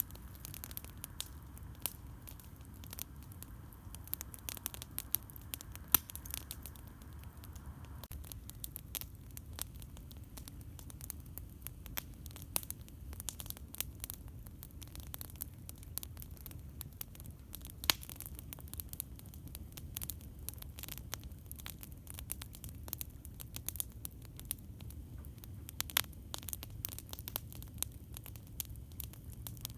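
Wood campfire crackling, with constant small snaps and a few louder pops, over a steady low rumble.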